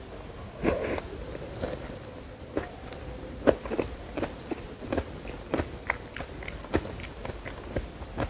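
Close-miked eating: a run of sharp, crunchy bites and chews, several a second, the loudest about three and a half seconds in.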